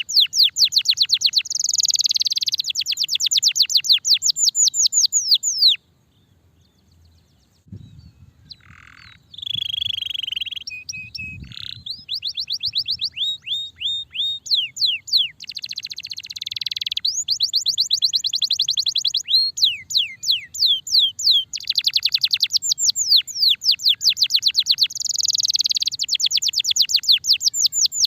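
Starblue canary singing a long song of fast trills, each made of rapid downward-sweeping notes, with buzzy rolls between them. The song breaks off for about two seconds about six seconds in, then comes back with a few softer, lower notes before the fast trills return.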